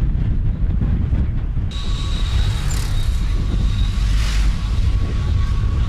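Steady low rumble of wind buffeting the microphone. About two seconds in, a thin, steady high-pitched tone starts and keeps going.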